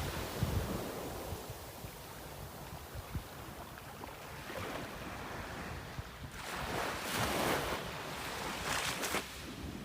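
Sea waves washing in, swelling to a louder rush a few times, with wind buffeting the microphone.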